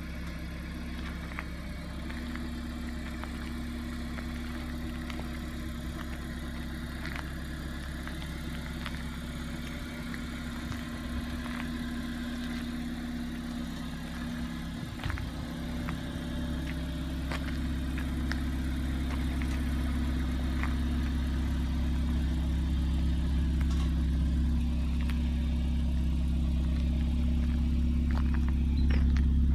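Renault Mégane RS engine idling steadily, with a few light ticks. It grows gradually louder over the second half and steps up again near the end.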